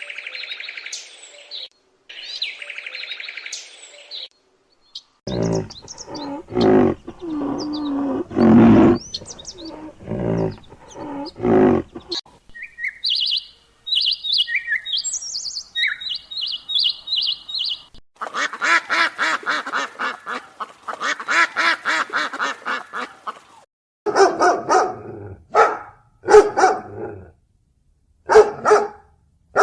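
A string of separate animal calls: high bird chirping, then several seconds of deeper, louder calls, more bird chirps, a fast run of repeated calls, and a few short barks near the end.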